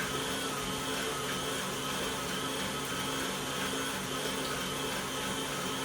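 Electric stand mixer running steadily with an even motor hum, beating a bowl of frosting.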